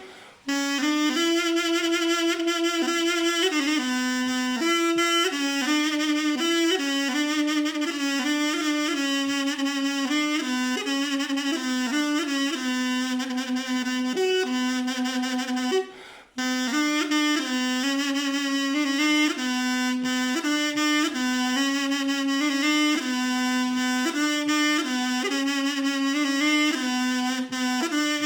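Solo mey, a Turkish double-reed wind instrument, playing a slow melody in its low-middle register with wavering, ornamented notes. The playing breaks off for a breath right at the start and again about halfway through.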